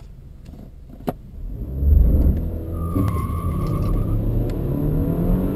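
A BMW engine accelerating hard from a standstill in a 0–100 km/h run, heard from inside the cabin, its revs climbing. The run opens with a sharp click and a second one about a second in.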